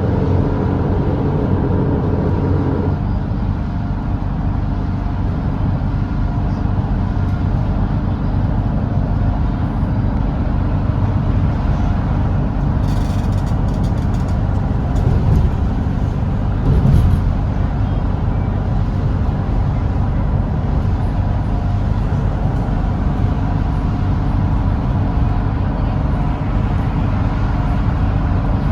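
Volvo B8RLE double-decker bus's six-cylinder diesel engine running steadily at expressway cruising speed, with road noise underneath. Its tone changes about three seconds in, and a few short rattles or knocks come through near the middle.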